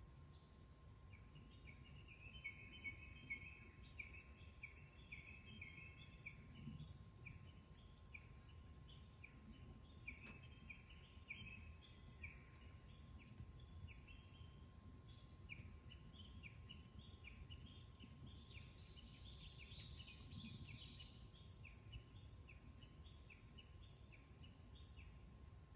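A bird calling faintly in a long run of short repeated chirps, with a brighter, higher flurry of notes about three-quarters of the way through, over a low background rumble.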